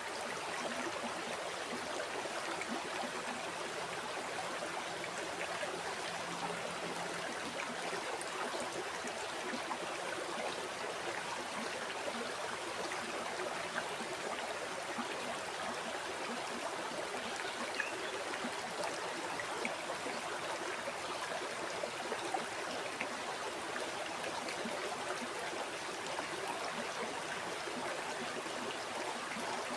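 Flowing river or stream: a steady rush of water over stones, with small splashes and trickles.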